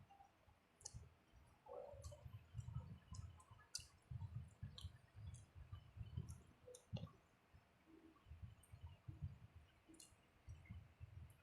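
Faint, close-up mouth sounds of a person eating rice and curry: soft irregular chewing with scattered small clicks and lip smacks.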